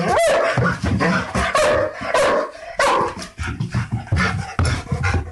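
A dog barking aggressively in rapid, repeated barks, about two a second.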